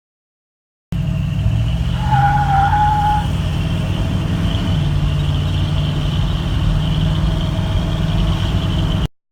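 Chevrolet 350 small-block V8 running through its dual exhaust with a steady low rumble, shifting slightly in pitch partway through. A brief high squeal sounds about two seconds in.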